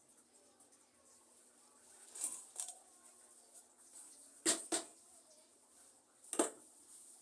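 A few sharp clicks and knocks of hands handling pots, tools or soil while repotting a plant, the loudest a pair about four and a half seconds in and a single one near six and a half seconds.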